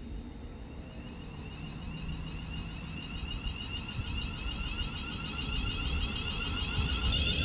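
Class 350 Desiro electric multiple unit approaching on the rails: a rumble and a high hiss with sweeping tones from the wheels on the track, getting steadily louder as it nears.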